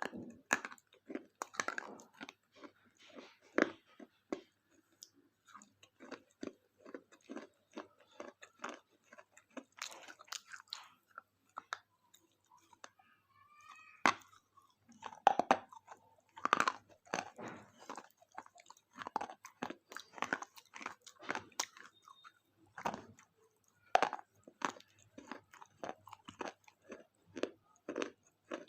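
A person chewing and crunching a KitKat chocolate-covered wafer bar: irregular crisp crunches, with a quieter pause about halfway through.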